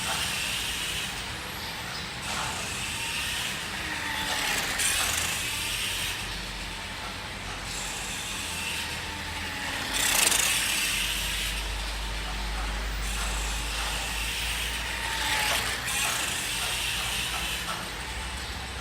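Nikko 1:5 RC Ducati toy motorcycle's electric motor and freshly repaired gear transmission running, in repeated surges a few seconds apart with the pitch rising and falling.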